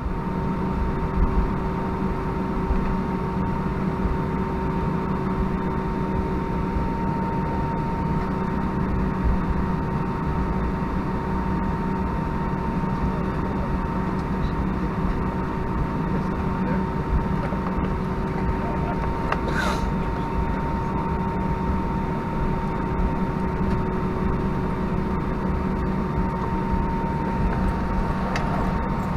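Airbus A319 cabin noise from a window seat: the IAE V2500 engines and air system make a steady hum with two steady whine tones, as on the ground before takeoff. A brief sharp sound cuts in about two-thirds of the way through.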